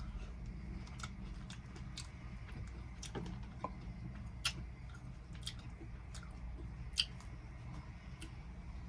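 Close-up crunching and chewing of cucumber salad, crisp crunches about once a second, two of them louder about halfway and near the end, over a low steady hum.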